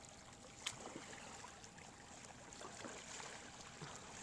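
Faint water sounds from a kayak on the move: paddle water trickling and lapping, with one small click about two-thirds of a second in.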